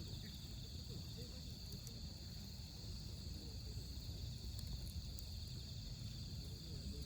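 Wood campfire burning in a fire pit, with scattered small crackles and pops over a low steady noise, and a steady high trill of autumn night insects such as crickets behind it.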